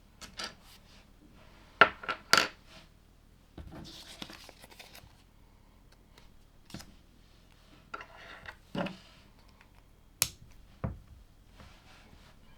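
Small plastic LEGO pieces being handled: sharp clicks and clatters of hard bricks knocking and pressing together, loudest as a pair about two seconds in and again near the end, with a stretch of rustling from sifting through parts around four seconds in.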